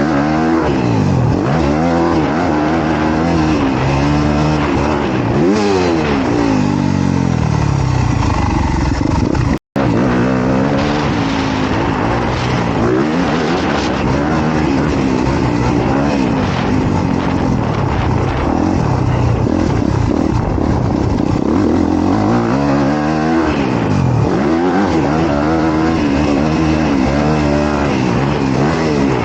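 Honda CRF250R dirt bike's single-cylinder four-stroke engine revving hard and easing off again and again, its pitch repeatedly rising and falling with throttle and gear changes. The sound cuts out for an instant about ten seconds in.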